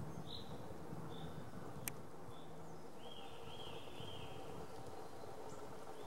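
Birds calling in woodland: short high notes about every second, with a run of three quick notes about three seconds in. A single sharp click sounds just before two seconds.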